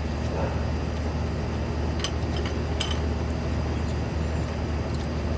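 Steady low rumble of a motor vehicle running nearby, with a few light clicks.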